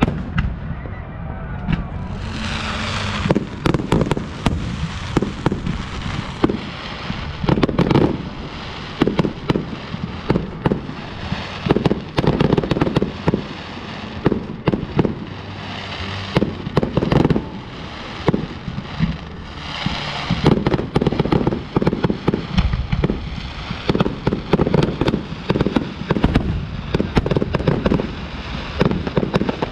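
Display fireworks going off in quick succession: a dense run of sharp bangs and launches, with a crackling hiss that starts a couple of seconds in and comes and goes.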